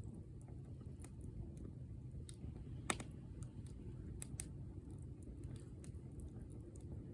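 Wood bonfire burning, with scattered crackles and pops over a steady low rumble; the sharpest pop comes about three seconds in.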